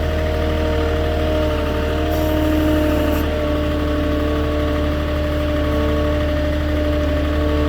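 Moffett truck-mounted forklift's engine running steadily at low speed as the forklift creeps along with a load of lumber, a constant engine hum whose pitch sags slightly near the middle.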